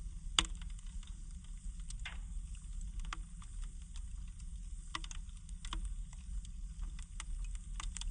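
Wood fire crackling in a fireplace: scattered sharp pops and snaps, the loudest about half a second in, over a steady low rumble of the flames.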